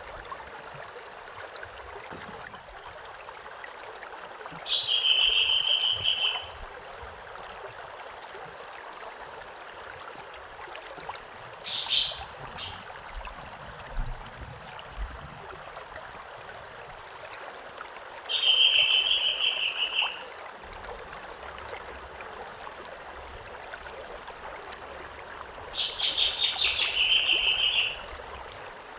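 River water running steadily, with a songbird repeating a short trilled phrase three times, several seconds apart, and giving two quick higher notes between them. The bird phrases are the loudest sounds.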